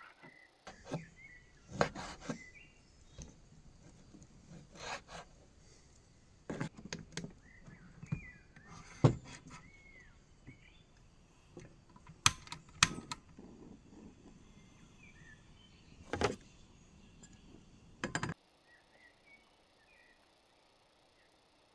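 Scattered knocks and clatter of objects being handled, a dozen or so separate hits, with small birds chirping.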